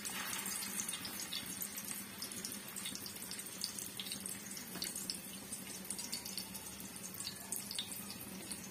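Egg-coated shami kebabs shallow-frying in hot ghee: a steady sizzle with many small crackling pops, swelling briefly as a kebab is laid into the pan at the start.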